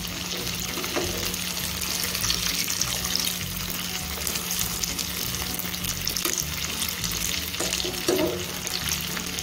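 Hara bhara kababs shallow-frying in hot oil: a steady, dense crackling sizzle, with a few brief scrapes of the spatula against the pan as the kababs are turned over.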